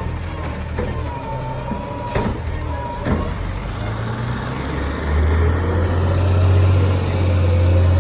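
Recycling garbage truck's engine running, with two sharp clanks about two and three seconds in; about five seconds in the engine grows louder and its pitch rises as it speeds up.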